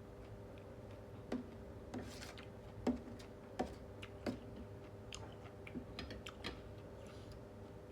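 Someone chewing and eating, with irregular sharp mouth clicks and smacks roughly every half second to a second, over a steady low background hum.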